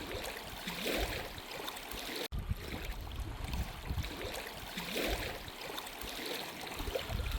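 Outdoor ambience: wind rumbling and buffeting on the microphone over a steady hiss.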